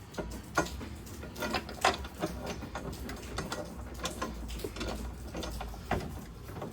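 A socket wrench and metal parts clicking and knocking irregularly as bolts are worked, several sharper knocks among lighter clicks.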